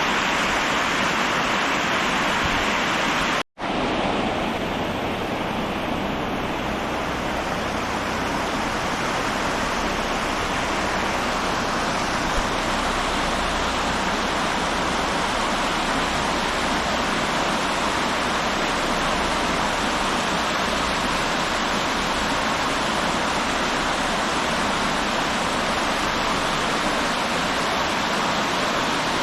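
River water rushing steadily in a continuous, even noise, with a momentary dropout about three and a half seconds in.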